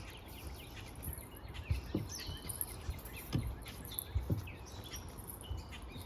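Small birds chirping repeatedly in short, downward-sweeping calls over a faint steady outdoor hiss, with a few dull low thumps.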